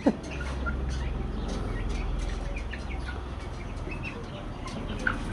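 A flock of broiler chickens chirping and clucking, with many short, scattered calls over a steady low hum.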